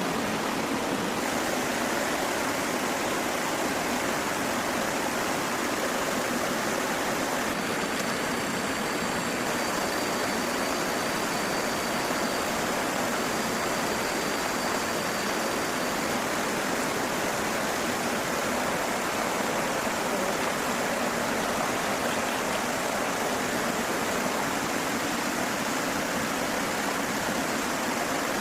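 Steady rushing of flowing water, like a forest stream. A faint thin high tone comes in about eight seconds in and fades out about halfway through.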